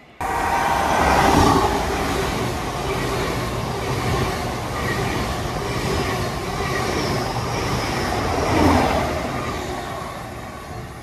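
An LNER Azuma passenger train passing through the station, a loud rumble of wheels on rail that starts abruptly and fades near the end.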